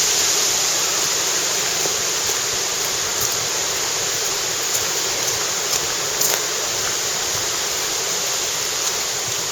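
Typhoon-force wind blowing through forest trees, a steady rushing of thrashing leaves and branches with a few faint clicks.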